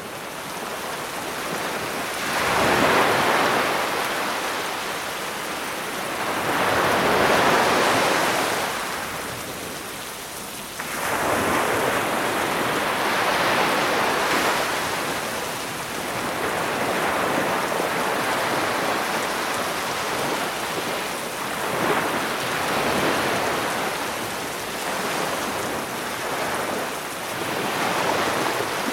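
Sea waves surging and breaking on a beach every few seconds, under a steady hiss of rain.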